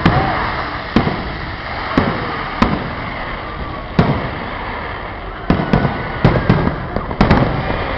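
Fireworks bursting overhead: single sharp bangs about a second apart, then a rapid cluster of bangs near the end.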